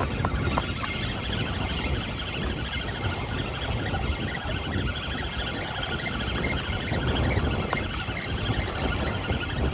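Steady wind buffeting the microphone with a low fluttering rumble, over the continuous rush of surf on the beach.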